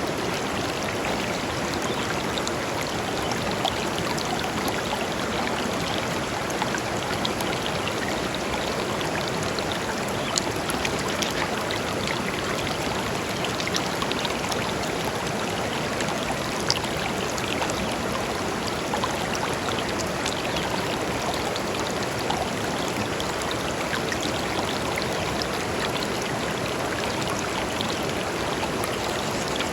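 Shallow river flowing steadily over stones, a continuous rush with small splashes and trickles dotted through it.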